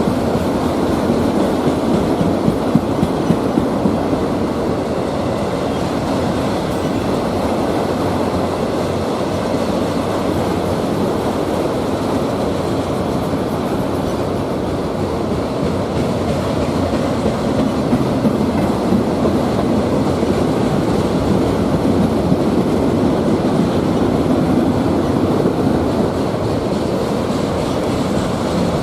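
CSX freight train rolling past close by: a steady rumble of railcars with wheel clatter, a few sharper clacks in places.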